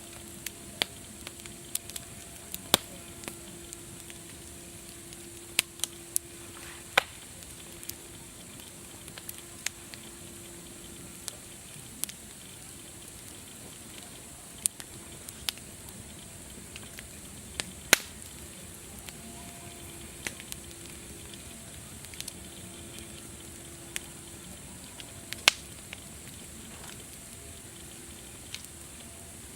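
Wood fire crackling: irregular sharp pops and snaps over a steady hiss, the loudest a little past halfway and again near the end.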